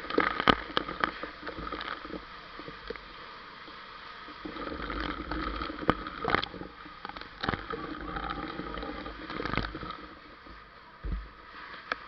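Heavy rain and running, splashing water, with scattered sharp knocks and clicks.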